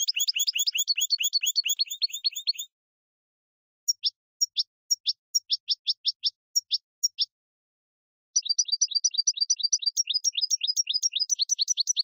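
Bird song: three runs of quick, repeated high chirps, each sliding downward in pitch. The middle run is slower and more spaced, and there is dead silence between the runs.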